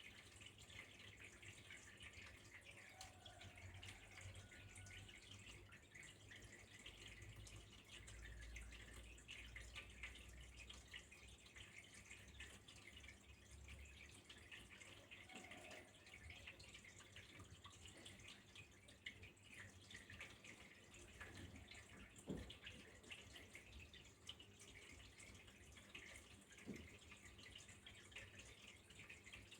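Faint, steady trickle of flowing water with fine dripping and splashing. A low rumble rises for several seconds in the first half, and two soft knocks come in the second half.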